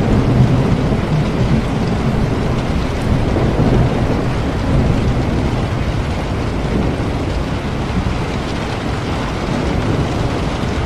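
Steady heavy rain with a low rumble of thunder that is strongest in the first few seconds and then dies away.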